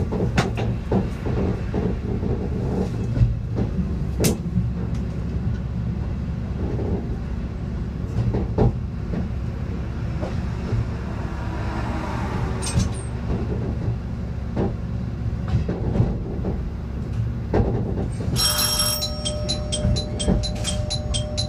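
Aizu Railway diesel railcar running slowly into a station: a steady engine and wheel rumble with occasional knocks over rail joints. About eighteen seconds in, a level-crossing warning bell starts ringing at about two strokes a second.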